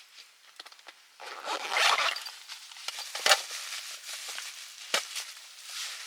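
Close handling noises: a rasping, rustling stroke lasting about a second, then two sharp clicks a second and a half apart.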